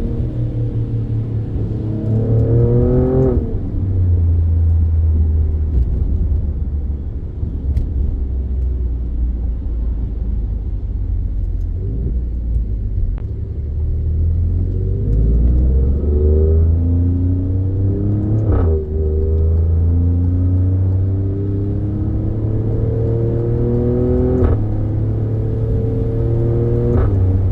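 Alfa Romeo Stelvio Quadrifoglio's twin-turbo 90-degree V6, breathing through a K&N air filter, accelerating under load. The engine note climbs in pitch and drops back sharply at each shift, three times: once a few seconds in, then about two-thirds through and again near the end.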